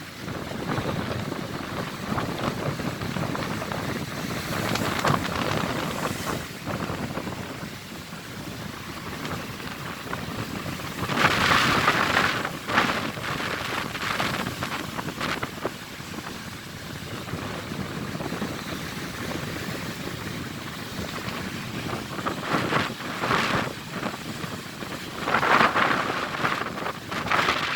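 Stormy sea surf, with waves breaking and washing in a continuous rush, and wind on the microphone. Two bigger waves crash, about eleven seconds in and again near the end.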